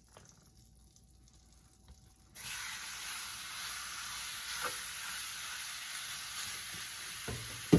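Diced chicken breast sizzling steadily in a hot pan, starting suddenly about two seconds in after near silence. A faint knock comes midway and a sharp clack at the very end.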